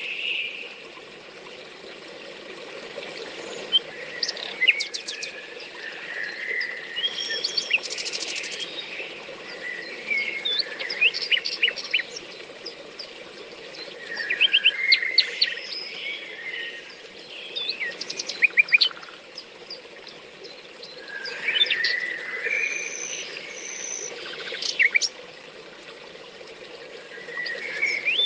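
Several songbirds singing and calling in bouts of quick high chirps and trills every few seconds, over a steady low background rush.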